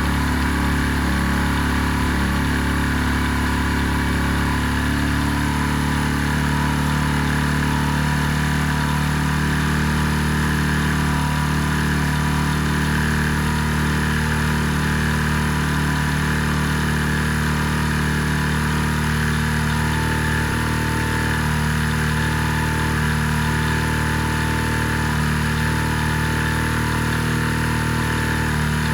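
Benelli Keeway 125 motorcycle engine idling steadily.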